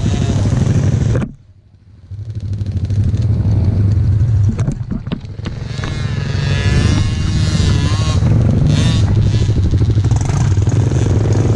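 Small single-cylinder pit bike engines running, loud and steady, with a sudden brief drop-out about a second in before the engine sound returns. Around the middle a higher, wavering engine note rises over the steady drone.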